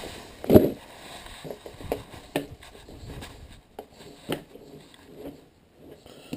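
Handling noises as the skateboard deck and its metal parts are moved about: one loud knock about half a second in, then several lighter knocks and rubbing.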